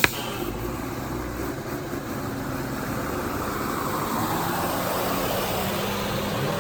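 Motorcycle and truck engines running in heavy, slow traffic: a steady engine hum, with a rushing noise that swells after the middle and eases near the end. A sharp click right at the start.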